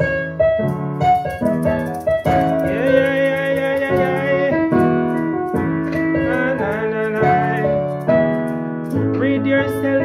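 Keyboard playing held chords that change about once a second, with a wavering melodic line, likely a chanting voice, coming in about two seconds in.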